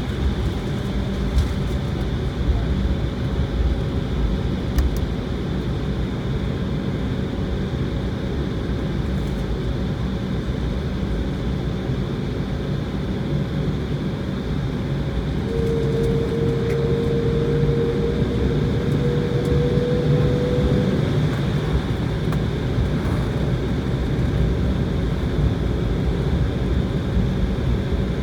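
Cabin noise of an Embraer airliner's jet engines at takeoff power: a heavy steady rumble with a whine that rises slightly in pitch and grows a little louder about halfway through.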